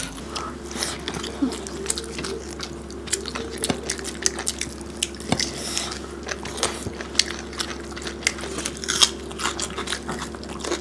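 Close-up mouth sounds of people eating rice and curry by hand: chewing with many short wet smacks and clicks. A faint steady hum sits underneath.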